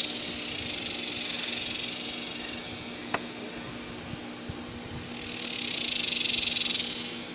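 Aerosol spray lithium grease hissing from the can in two bursts: the first dies away about two seconds in, the second runs from about five to seven seconds in. A single sharp click comes in the lull between them.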